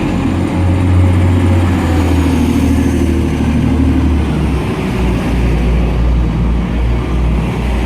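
Class 185 diesel multiple unit pulling out of the station, its diesel engines running under power with a steady low drone. The engine note drops about two-thirds of the way through.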